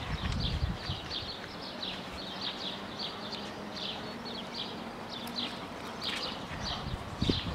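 Small birds chirping over and over, several short high chirps a second. Low thuds come in the first moment and again near the end, with a faint steady hum between.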